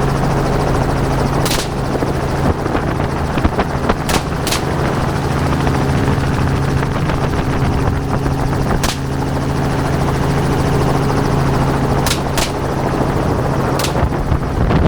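Hunting helicopter running steadily, with its engine and rotor hum, heard from on board. About seven short, sharp cracks cut through the hum.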